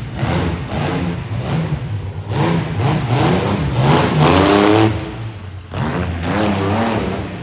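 Monster truck engine revving hard in several bursts, the pitch climbing and dropping back each time. It is loudest about four seconds in.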